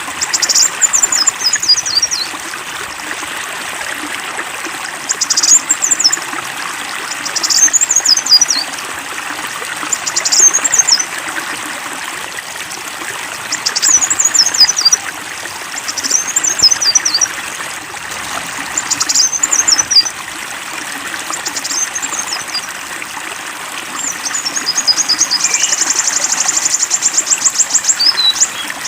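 A songbird singing short, high, quick phrases every two to three seconds over the steady rush of flowing water, with a long, fast trill near the end.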